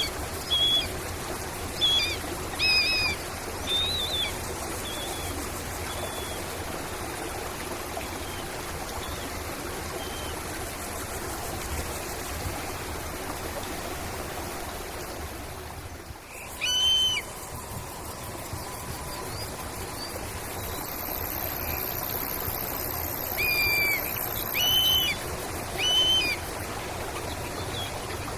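Short bird calls over a steady background of running water: a cluster of chirps in the first few seconds, a single call just past the middle, and several more near the end.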